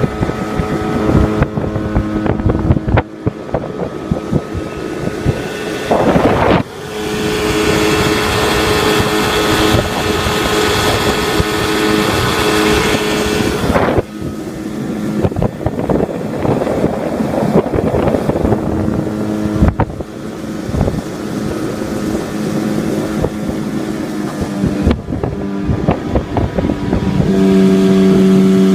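Yamaha 25 hp outboard motor running with the boat under way, with wind noise on the microphone. The engine note gets louder and higher about six and a half seconds in, eases back around fourteen seconds, and strengthens again near the end.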